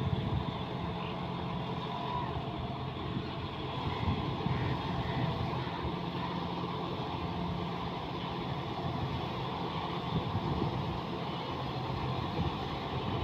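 John Deere 5210 4x4 tractor's diesel engine running steadily.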